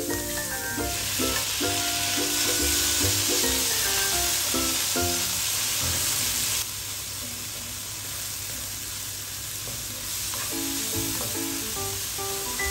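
Sliced sausage, onion and chili sizzling in hot oil in a nonstick frying pan while being stirred with a wooden spatula. The sizzle is loud until a little past halfway, then drops sharply to a quieter frying hiss.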